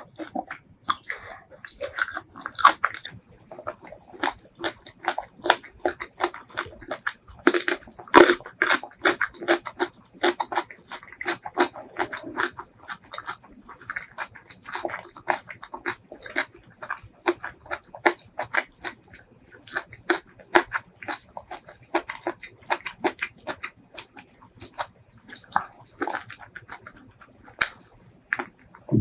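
Close-miked chewing and biting of braised seafood: a continuous run of quick mouth clicks and smacks, several a second.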